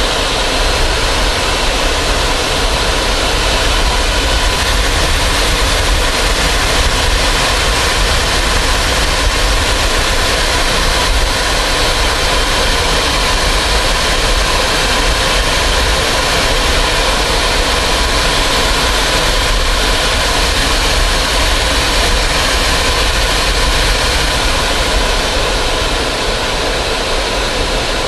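Fighter jet engine running steadily: an even rush of jet noise with a faint steady whine in it.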